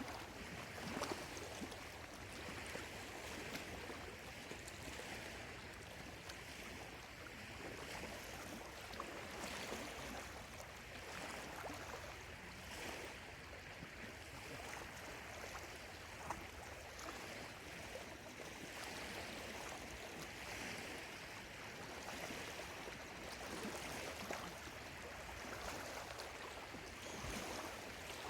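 Small lake waves lapping steadily at the shore, a continuous wash with little irregular splashes.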